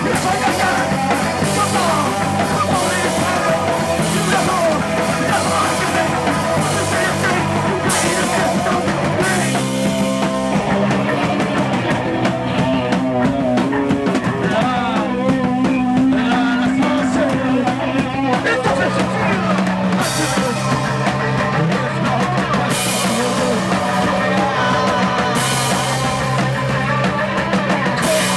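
A rock band playing loud and full: drum kit, distorted electric guitar and bass. Partway through, the cymbals drop back for several seconds, then crash back in.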